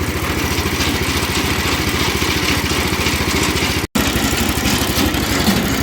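Small petrol engine running steadily, driving a machine through a worn V-belt and chain. The sound drops out for a split second just before four seconds in.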